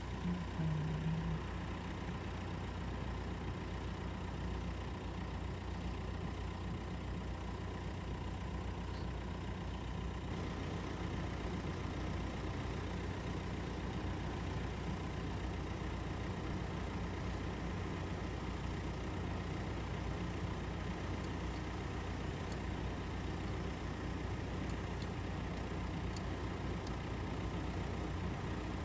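Engine idling steadily: a low, even rumble that barely changes.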